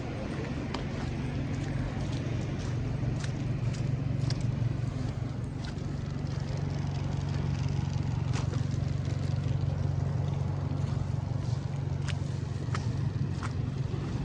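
A vehicle's engine running steadily with a low hum, with scattered short ticks and crunches over it.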